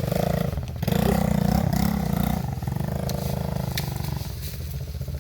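Pit bike engine revving hard in first gear, cutting out briefly about a second in, then rising and falling in pitch before easing off near the end.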